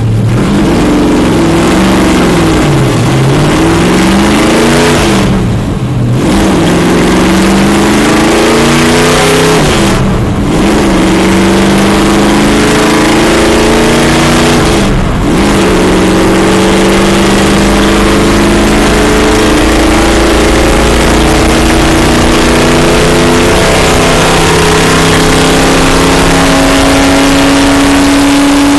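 A stock car's V8 engine, heard from inside the cockpit, accelerating hard through the gears. The pitch climbs and drops at each upshift, several times in the first fifteen seconds, then rises slowly and holds at high revs.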